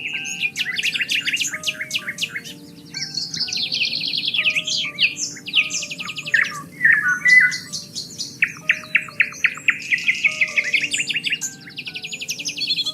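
Several songbirds singing in rapid trills and quick repeated chirps, one song overlapping another, over soft background music with long held notes.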